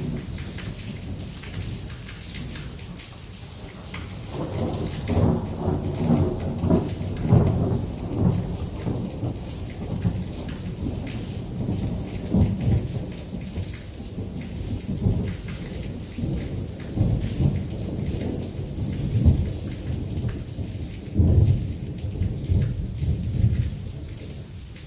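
Heavy rain falling steadily under a long rolling rumble of thunder. The thunder builds about four seconds in and swells repeatedly, then eases near the end.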